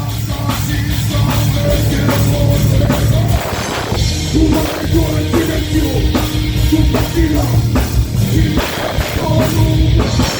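Live rock band playing at full volume: drum kit, bass and electric guitars, with a sustained, wavering melodic line over the top.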